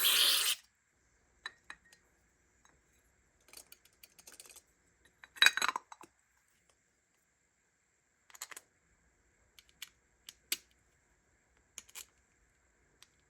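A short hiss of spray ends about half a second in. Then come scattered light clicks and clinks of small metal carburetor parts being handled and set down on the bench, one sharper clink about five seconds in.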